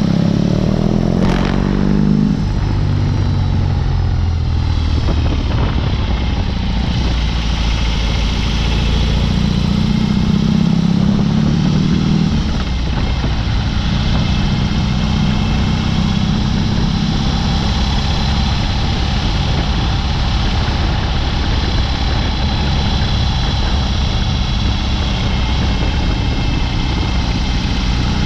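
BMW R18's 1802 cc boxer twin running through a Dr. Jekill & Mr. Hyde exhaust while riding. The note falls off over the first two seconds, with a brief sharp click about a second in, then runs steadily, swelling briefly in the middle.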